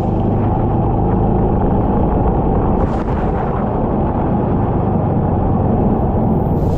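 Kart engine running steadily under load, heard as a dense, muffled rumble. The sound brightens near the end.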